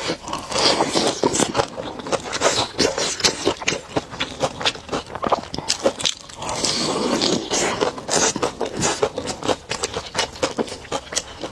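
Close-miked biting and chewing of a chicken leg, a continuous run of short wet smacks and clicks, thicker for a moment about halfway through.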